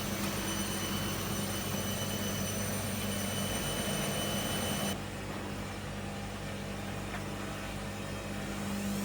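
Miele MedicWash W2585 washing machine running with a steady low hum. About halfway through, a set of high whining tones cuts off suddenly and the machine gets a little quieter.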